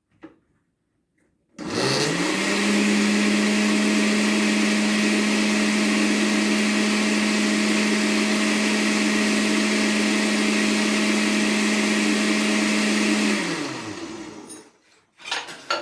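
Electric blender running, blending carrot and pumpkin juice with nutmeg and cinnamon; the motor spins up about two seconds in, runs steadily, and winds down near the end, followed by a few light clinks.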